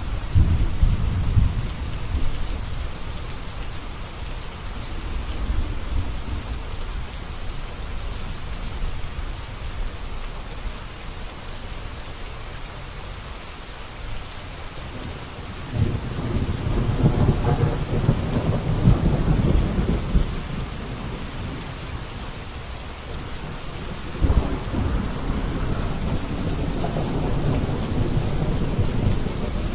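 Steady rain falling, with deep rolling thunder rumbling in long swells: one at the start, a louder one from about a third of the way in, and another starting suddenly near the end.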